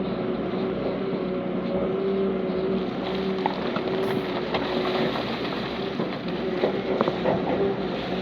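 Heavy diesel earthmoving machinery running steadily, with a few sharp knocks in the second half.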